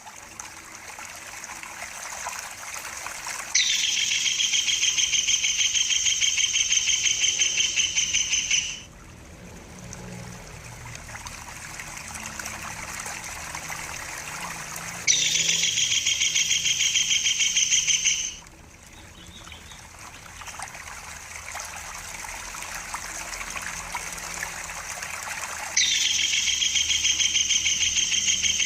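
Recorded calls of a tengkek buto (collared kingfisher): a loud, fast chatter of evenly pitched notes in three bursts a few seconds long, repeated about every eleven seconds as a looped training track. Between the bursts, trickling water runs steadily.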